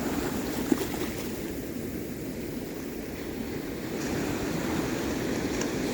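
Sea waves washing on the shore, a steady rushing noise, with one small knock just under a second in.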